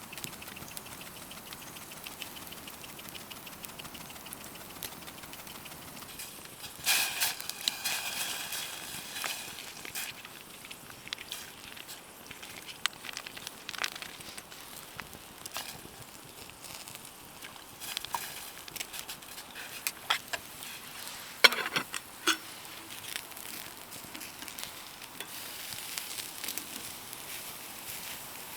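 Campfire crackling and hissing with scattered small pops, broken by a clatter with a brief ringing about seven seconds in and two sharp knocks about twenty-one seconds in.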